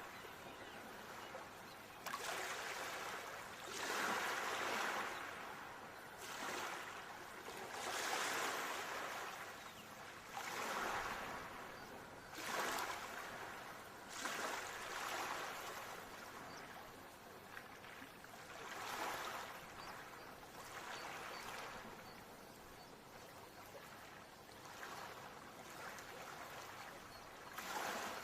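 Ocean waves washing in, a hiss of surf that swells and fades every few seconds.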